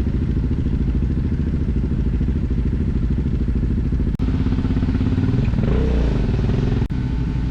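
Motorcycle engine running at low revs with a steady pulse, its pitch rising and falling once a little past the middle.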